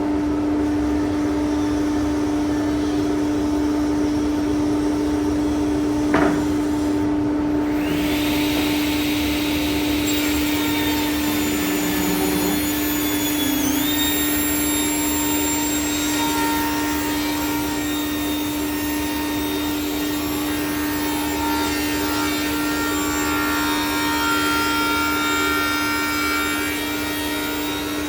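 Electric power tool running steadily with a high motor whine while cutting wood; a sharp knock about six seconds in, and the hiss of the cut comes in about eight seconds in.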